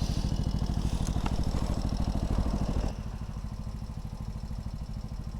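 Mini motorcycle's small engine running steadily. Its sound drops to a lower level about three seconds in.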